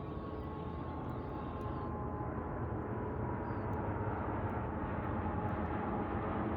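Drone of a passing aircraft, steady and slowly growing louder, with a faint tone that gradually falls in pitch.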